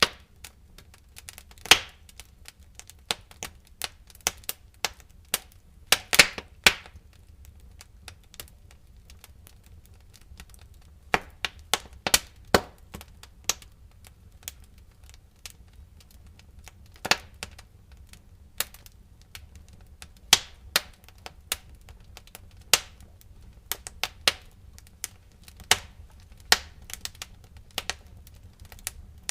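Wood fire crackling in a fireplace, with irregular sharp pops and snaps over a faint low rumble, and a quick cluster of loud pops about six seconds in.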